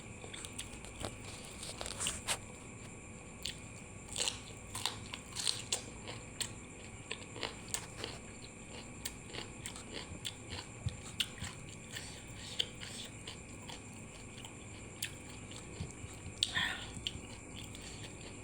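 Close-up mouth sounds of a person eating: irregular bites, chewing and crunches with small wet clicks, as of steamed chicken and raw vegetables.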